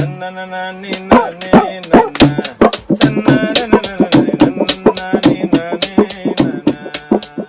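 A male folk singer sings a Telugu folk song in held, wavering notes. He accompanies himself with a jamukulu, a folk percussion instrument, whose regular sharp strikes keep the rhythm over a steady low drone.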